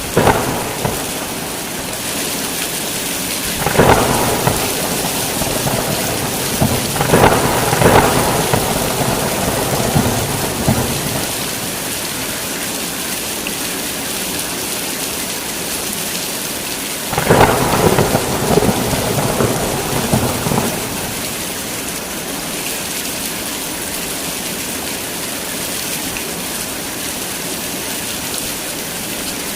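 Heavy rain falling steadily, with thunder rumbling over it: a crack right at the start, peals about four and seven seconds in, and a longer rumble starting about seventeen seconds in that lasts around four seconds.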